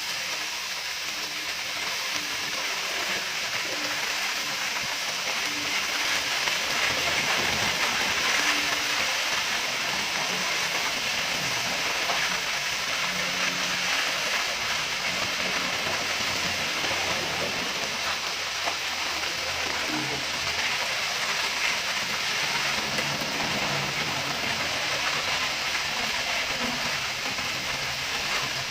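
Mala-marinated pork ribs sizzling on a hot grill pan: a steady frying hiss, a little louder about eight seconds in.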